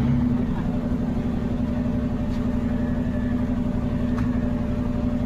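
A vehicle engine running steadily, a constant-pitched drone over a low rumble.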